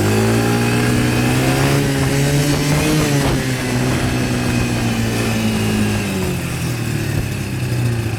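Quad bike engine revving up sharply, its pitch climbing a little over the first three seconds, then slowly falling as the throttle eases. The bike pulls away quicker than its rider expected.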